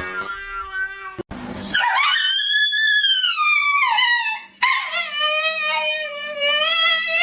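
A pet howling in two long drawn-out calls: the first rises and then falls in pitch, and the second, starting a little past the middle, is held fairly steady.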